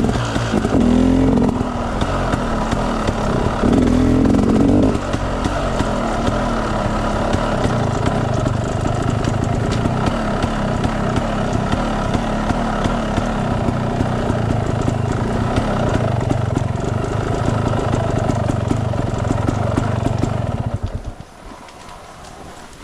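Enduro dirt bike engine revving in two short bursts, then running steadily under way. The engine sound drops away sharply near the end.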